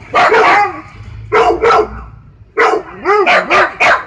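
Husky barking: one bark, then two quick barks, then a fast run of about five short barks whose pitch rises and falls.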